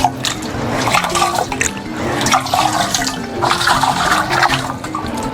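Water splashing and sloshing in repeated surges as an earthen clay pot is rinsed by hand, over background music with a steady melodic line.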